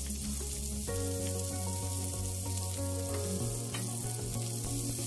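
Chopped onion and garlic sizzling in hot cooking oil in a frying pan as they are sautéed, a steady hiss with soft background music underneath.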